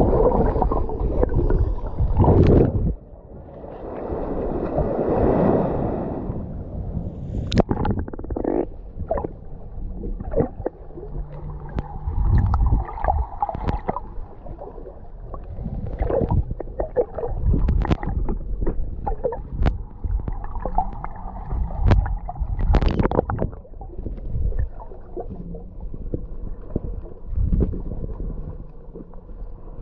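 Sea water sloshing and gurgling around a camera at the water's surface while swimming, with irregular splashes and knocks throughout, the sound mostly low and dull.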